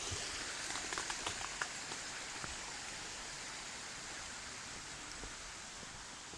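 River water rushing steadily, slowly growing fainter, with a few light clicks about a second in.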